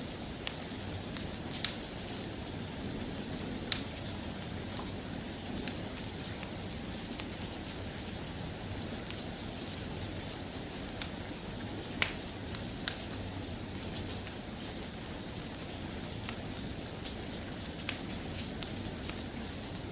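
Soft, steady rain falling, with scattered sharp ticks every second or two.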